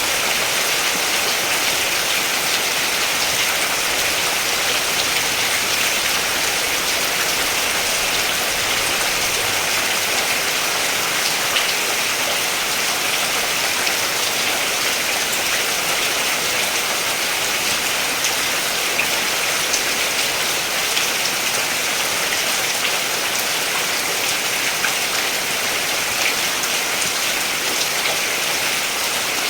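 Steady rain falling, an even hiss with faint drop patters throughout.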